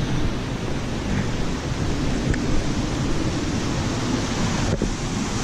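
Steady rush of fast-flowing river water over rapids and falls.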